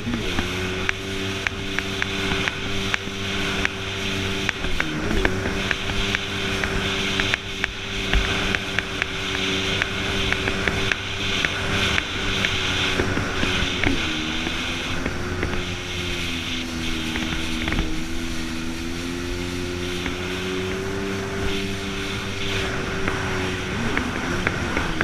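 Jet ski engine running steadily at speed under a constant hiss. Its pitch dips briefly about a fifth of the way in, then sags lower for a few seconds past the middle before climbing back.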